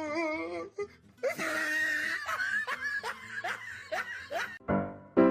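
Laughter in a run of short repeated bursts, with music. Near the end a louder sound with a deep low note cuts in.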